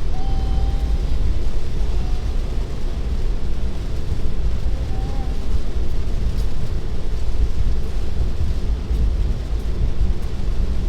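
Steady low rumble of tyre and road noise inside a Tesla's cabin while driving on a wet road in heavy rain.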